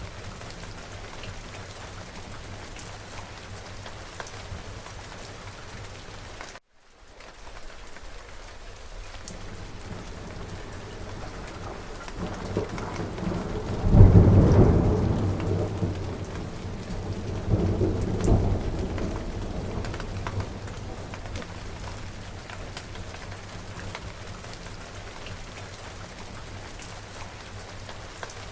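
Steady rain falling, with a thunderclap about halfway through: a low rumble builds, peaks sharply, then rolls away with a second swell a few seconds later. The rain cuts out for a moment about a quarter of the way in.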